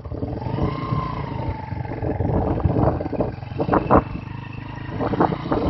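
Motorbike engine running with a rough low rumble that swells louder several times in the second half.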